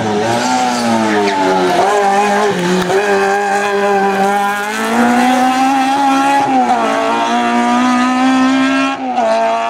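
Race car engine running hard at high revs, its pitch climbing and then dropping several times as it shifts gears, with a sharp drop about nine seconds in.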